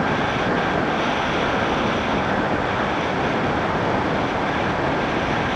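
Steady wind rush and road noise on the microphone of a moving motorcycle.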